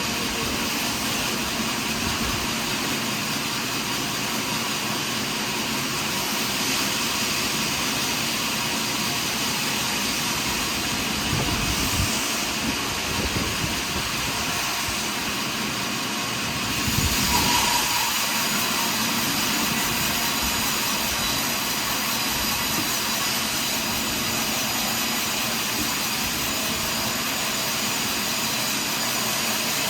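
Portable sawmill running steadily through a large pine log, a loud, continuous machine noise that swells briefly about twelve seconds in and again past the middle.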